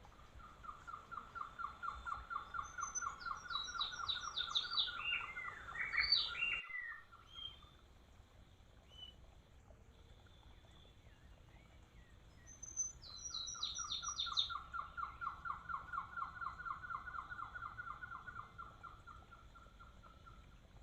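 Wild birds calling: a long, even series of about four notes a second, with quick, high, falling notes over it. It comes twice; the first bout cuts off abruptly, and the second starts about midway.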